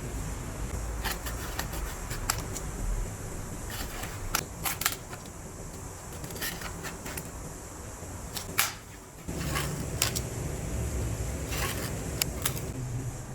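Scattered sharp clicks and knocks, some in quick pairs, over a steady low rumble that drops out briefly about nine seconds in.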